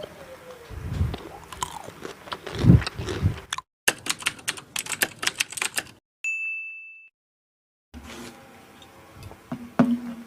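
Close-miked eating sounds: chewing and mouth noises, then a fast run of sharp clicks for about two seconds. A single bright ding rings out about six seconds in, followed by a moment of dead silence and then faint clicks and chewing.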